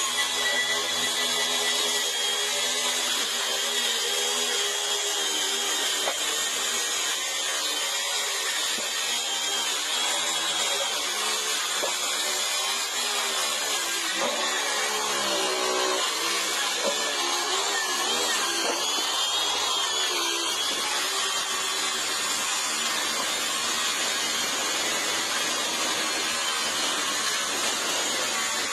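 DeWalt DCS565B cordless circular saw running through a long cut in decking, its motor whine steady with the pitch wavering as the blade takes load. The saw stops abruptly at the end.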